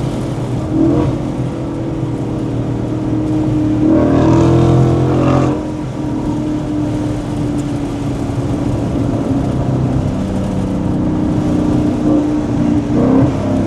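Ford Mustang GT's 5.0 V8 idling steadily, with a short rev about four seconds in that lasts about a second and a half before the engine settles back to idle.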